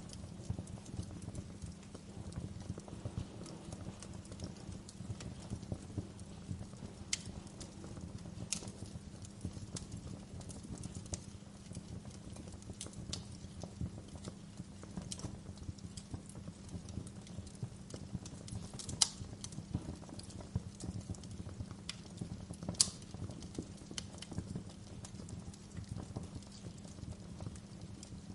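Wood fire crackling steadily, with scattered sharp pops; two loud pops stand out about two-thirds of the way through, a few seconds apart.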